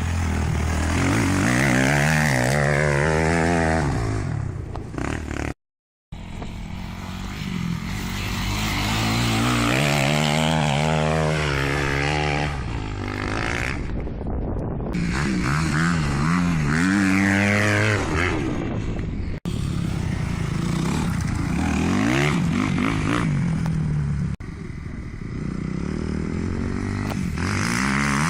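Kawasaki KX250F four-stroke single-cylinder motocross bike engines revving hard under load on hill climbs, the pitch rising and falling repeatedly as the throttle opens and closes. A brief gap in the sound about six seconds in.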